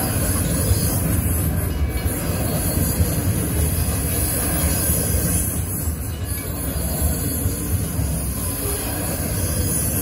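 Freight train of hopper wagons rolling past over the level crossing: a steady, continuous low rumble of wheels on rail, with a steady high-pitched hiss above it.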